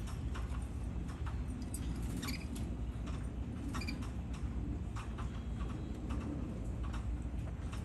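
Caged canaries making scattered light clicks and ticks, with a few brief high chirps, over a steady low hum.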